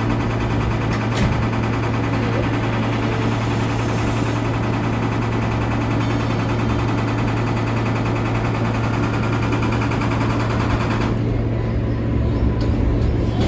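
R143 subway train running along the track: a steady rumble and rattle of wheels on rail over a constant low hum. About eleven seconds in, the high hiss drops away abruptly.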